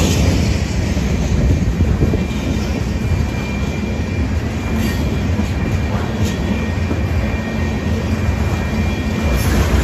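Freight train of coal hopper cars rolling past: a steady rumble of steel wheels on rail, with a faint high wheel squeal running through it and a few sharp clanks from the wheels and couplings.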